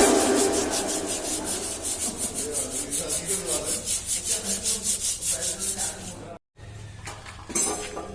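Sandpaper rubbing on a car body panel in rapid back-and-forth strokes, about four a second, which stop after about six seconds; this is hand sanding during dent and paint repair.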